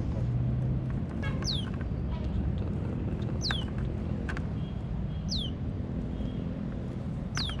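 A bird calling a short, high whistle that slides steeply downward, repeated about every two seconds, four times, over a steady low rumble.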